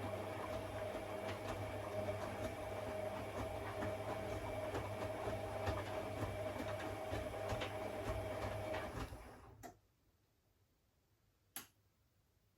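A steady machine hum with faint scattered ticks, which cuts out to near silence just under ten seconds in; one short click follows near the end.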